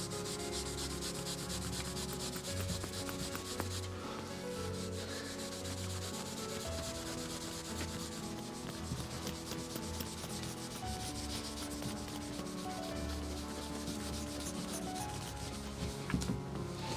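A microfibre strip loaded with Autosol metal polish being worked back and forth around a steel LS V8 crankshaft bearing journal, a steady, continuous rubbing. This is the polishing that lifts specks of surface rust off the journal.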